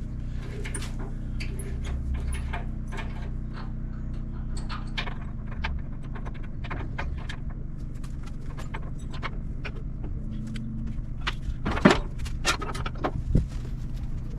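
Metal clinks and rattles of hand tools working a truck battery's terminals and hold-down as the battery is disconnected and lifted out, with a few louder clunks near the end.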